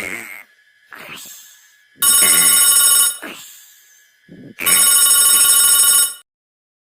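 Two loud, telephone-like rings, each about a second long and a second and a half apart, with fainter short sweeping sounds between them.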